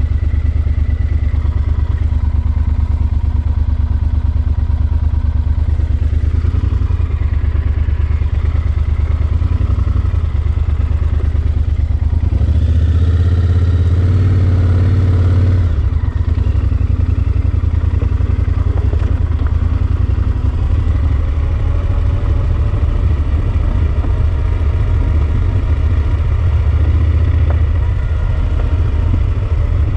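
Yamaha Super Ténéré XT1200's parallel-twin engine running under way on the road, with a deep steady rumble. About halfway through it swells louder for a few seconds, then settles back.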